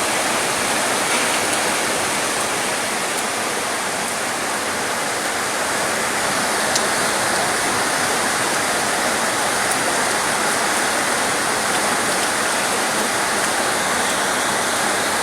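Steady heavy rain: an even, unbroken rushing hiss.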